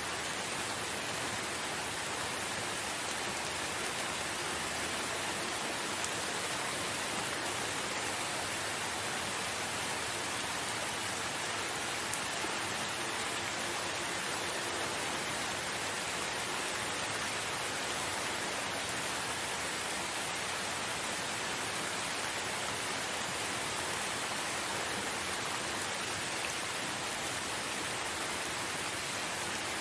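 Steady rain falling, an even unbroken hiss of many drops with no let-up.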